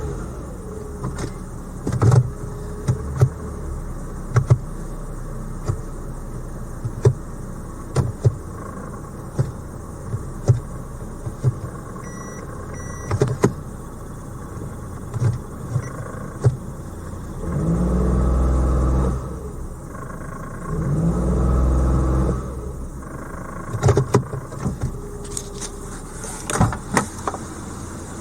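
Suzuki Jimny JB23W's K6A 660 cc three-cylinder turbo engine idling, then revved twice a little past halfway, each rev rising and falling over about two seconds. Sharp clicks and knocks come and go throughout.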